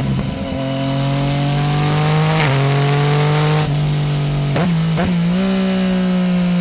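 Yamaha Tracer 900 GT's 847 cc inline three-cylinder engine through a full aftermarket exhaust without dB-killer, pulling under throttle with revs climbing slowly, broken by a few brief changes in pitch.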